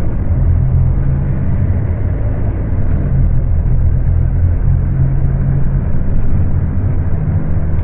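Scania K250UB city bus's diesel engine running under load at high revs, a steady loud drone with a strong low hum; one band of the hum fades about two thirds of the way in and comes back near the end. The phone recording makes it sound rough.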